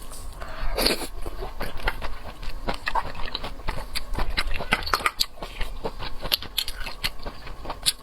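Close-miked eating of shellfish: chewing and smacking with many short wet clicks, and a longer sucking noise just before a second in.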